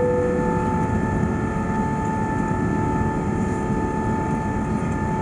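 Steady roar of an Air France Airbus A380-800's Engine Alliance GP7200 engines and airflow heard inside the economy cabin, with a steady whine of several fixed tones over it.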